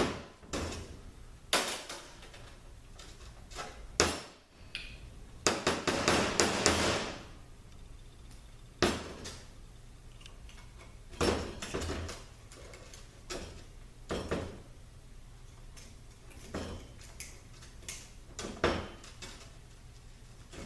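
Metal automatic-transmission oil pump parts being handled, with irregular clinks and knocks of metal on metal and a longer rattling clatter about six seconds in.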